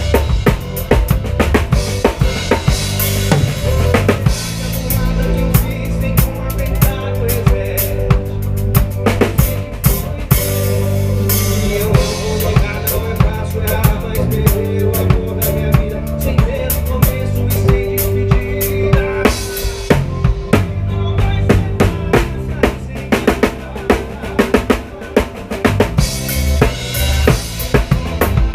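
Live band playing an instrumental passage with the drum kit loud and to the fore: a steady beat of kick drum, snare and rimshots over held notes from the other instruments.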